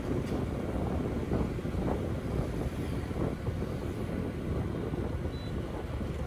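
Steady low rumble of street traffic with wind buffeting the microphone, and a brief faint high beep about five seconds in.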